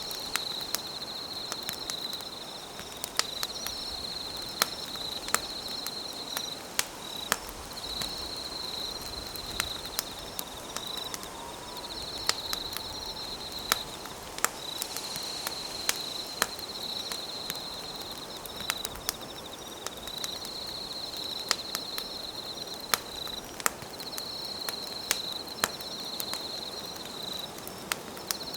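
Campfire crackling, with sharp irregular pops over a steady hiss. An insect trills in repeated high phrases of about two seconds with short breaks between them.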